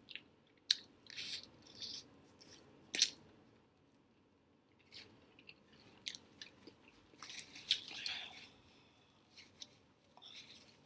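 Close-up eating sounds: biting and chewing crispy fried chicken wings, with scattered crisp crunches and wet mouth smacks, the sharpest bites about a second in and at three seconds.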